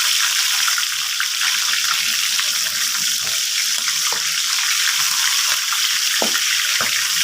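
Frozen liver strips sizzling in very hot ghee and oil on a high flame: a loud, steady frying hiss with scattered crackles, the frozen meat's moisture spitting in the fat. A couple of soft knocks come near the end.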